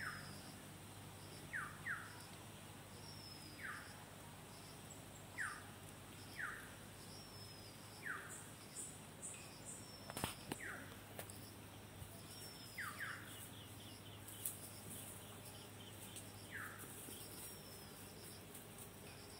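Faint background bird calls: short falling whistled notes, sometimes in pairs, repeated every second or two, over a faint, regular, higher chirping. One sharp click about ten seconds in.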